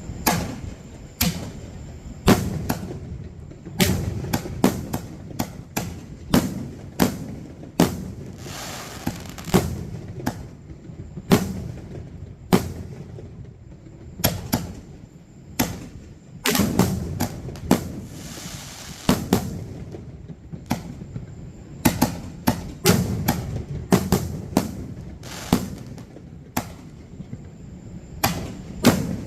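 Aerial firework shells bursting in quick succession: dozens of sharp bangs, often two or three a second. Two stretches of dense hissing crackle come about 8 seconds in and again about 17 seconds in.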